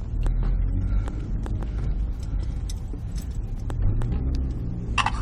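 Steady low rumble of a car running in slow traffic, heard from inside the car, with a brief higher sound near the end.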